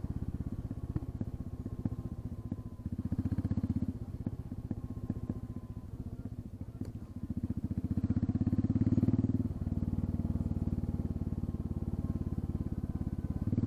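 Royal Enfield Classic 350 single-cylinder engine running with its exhaust end-tip removed, so the open exhaust is heard, firing pulse by pulse. The note swells twice, around three seconds in and again around eight seconds in, and drops away sharply just after nine seconds.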